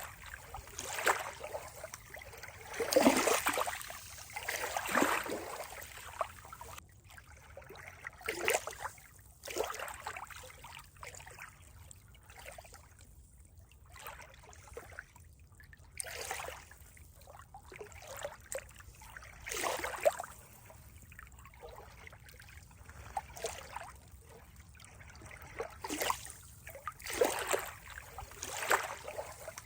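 Water trickling and splashing in irregular swells, some louder than others, with no steady rhythm.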